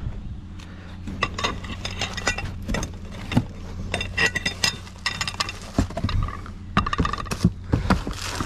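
Repeated clinking and clattering of metal and glass scrap being handled and shifted, with many sharp knocks and short ringing tones. A steady low hum runs underneath.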